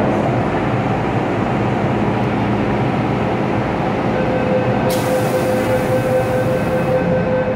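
MTR Tsuen Wan line M-train running, a steady rumble with a steady whine that strengthens about four seconds in. About five seconds in, a hiss joins for roughly two seconds and then stops.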